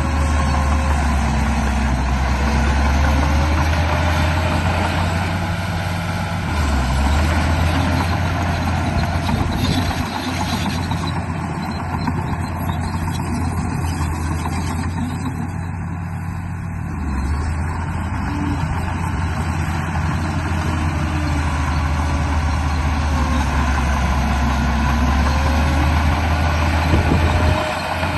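RC bulldozer running: a steady low engine-like drone with a fainter motor whine that rises and falls as it moves.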